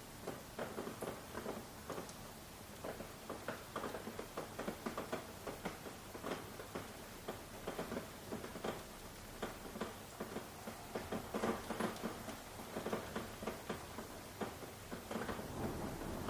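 Rain falling as irregular drips and pattering drops, several sharp little ticks a second over a faint steady hiss.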